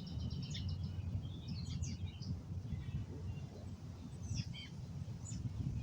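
Small birds chirping, with a quick trill at the start and scattered short calls through the rest, over a steady low rumble of wind on the microphone.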